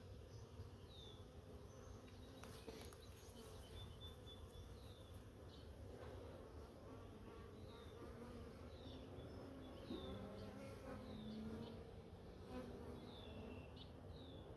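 Honeybees from an opened nuc buzzing around the hive as frames are handled, a faint steady hum that wavers slightly in pitch.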